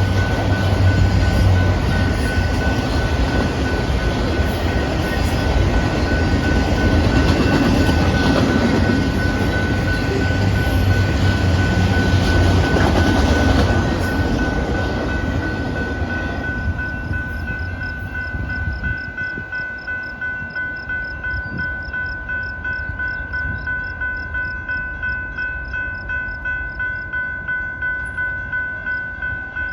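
Freight cars of a Canadian Pacific manifest train rolling past a grade crossing with loud rail noise, which fades out a little past halfway. This leaves the crossing signal bell ringing about twice a second.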